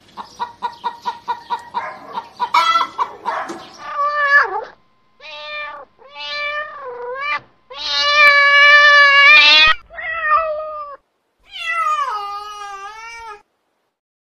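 A cat meowing repeatedly. It opens with a quick run of short calls, then gives about six drawn-out meows; the longest lasts nearly two seconds and the last falls in pitch.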